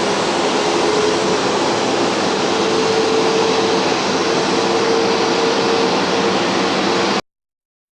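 Jet engines of a four-engined Airbus A340 airliner running, a steady loud rush of noise with a faint hum held through it. The sound cuts off suddenly about seven seconds in.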